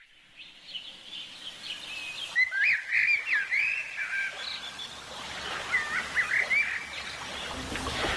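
Birds chirping and calling in quick rising and falling phrases over a faint steady outdoor hiss; the calls cluster in the middle and pick up again near the end.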